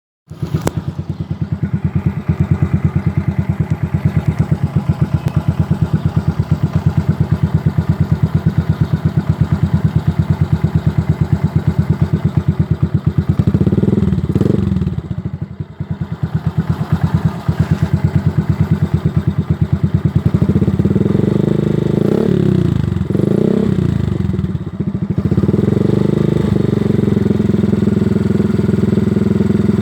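Suzuki Axelo 125's single-cylinder four-stroke engine running through an aftermarket Thai 'fu' silencer and custom header, idling with a deep, bassy, even pulse. The throttle is blipped briefly about halfway and several more times past two-thirds, then the engine is held at a slightly faster steady speed near the end.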